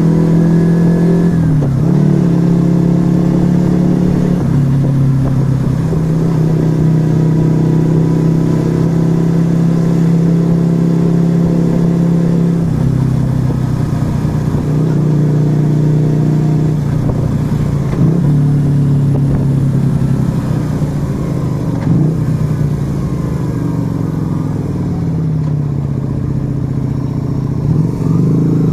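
Yamaha XV125 Virago's small V-twin engine through an aftermarket Turbo Kit exhaust, running at steady riding revs with brief dips in pitch at gear changes. Near the end the revs fall away, then climb again as it accelerates.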